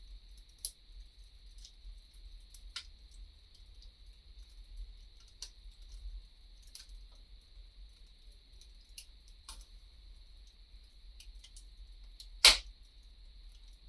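Wood fire crackling, with sharp snaps and pops at irregular intervals over a faint steady hiss. One much louder pop comes near the end.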